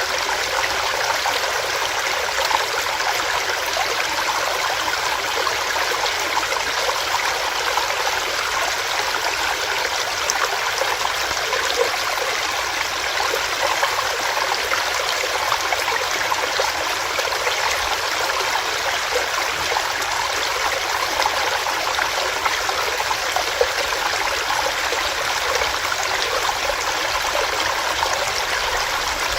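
Small stream of water running over rocks, a steady rushing and burbling flow.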